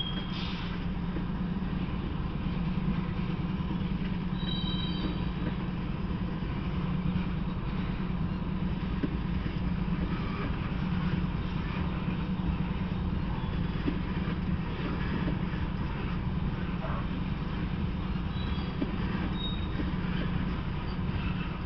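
Freight train of tank cars rolling past with a steady low drone of wheels on rails, with brief high wheel squeals a few seconds in and again faintly near the end.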